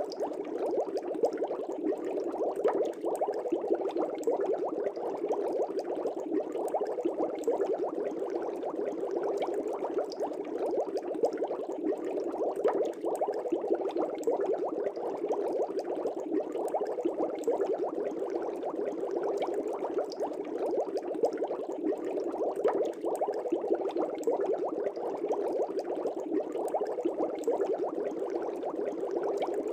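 Air bubbling steadily through aquarium water, a dense, continuous stream of small bubbles popping and gurgling.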